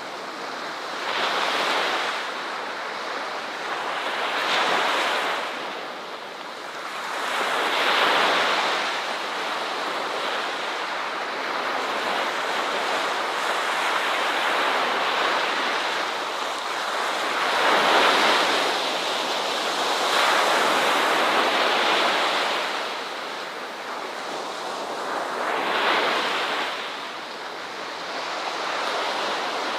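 Ocean surf: waves breaking and washing on a shore, a steady rush that swells up and falls back every few seconds.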